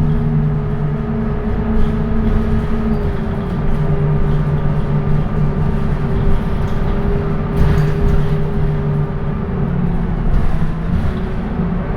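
Scania K230UB city bus under way, its diesel engine and ZF automatic gearbox giving a steady drone with a tonal whine. The pitch steps about three seconds in and again near the end.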